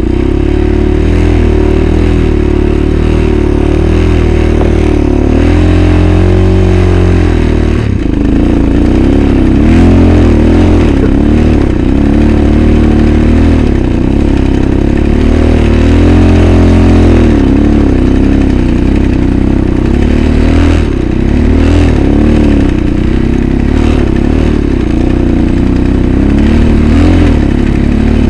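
Engine of an off-road machine running hard through snow, its pitch rising and falling continuously as the throttle is worked.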